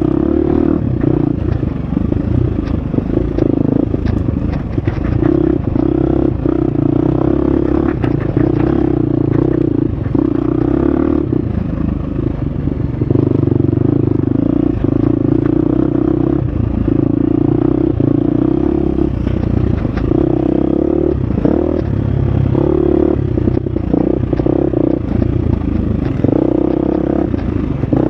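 Husqvarna FX 350 single-cylinder four-stroke dirt bike engine running hard on a trail, its revs rising and falling with the throttle through the gears. Clatter and knocks from the bike over rough ground run through it.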